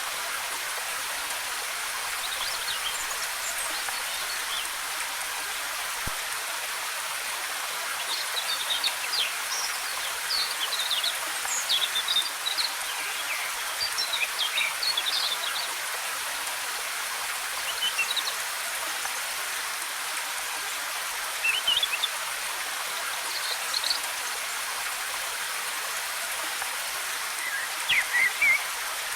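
Steady rush of a waterfall's cascading water with forest birds chirping in short, scattered bursts over it. The chirps are busiest through the middle and again near the end.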